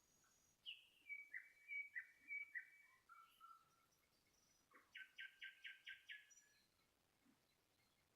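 An unidentified bird singing faintly in two phrases. The first runs about three seconds: clear whistled notes that step down in pitch. The second comes about a second and a half later: a quick series of about seven repeated notes.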